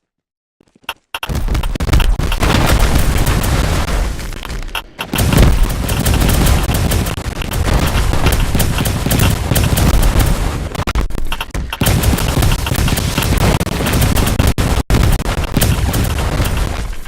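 Loud, violent wind roaring and buffeting the microphone in tornado footage, with dense rapid crackling, starting abruptly about a second in and briefly cutting out twice.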